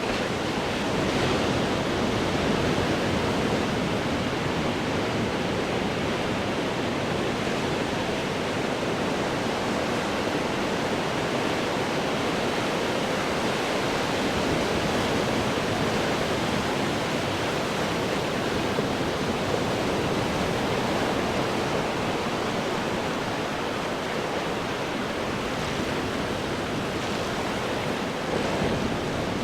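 Ocean surf breaking on rocks: a continuous, dense wash of water noise that swells only slightly, with no single wave standing out.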